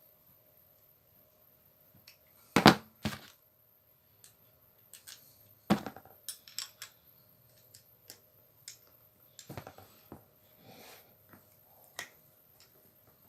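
Hard parts and tools being handled on a workbench: scattered clicks and light knocks, with two louder knocks about two and a half and six seconds in.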